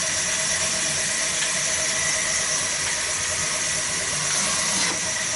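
Petter diesel engine running steadily, driving a wood-cutting saw machine, with a constant high whine and hiss over the engine's low running.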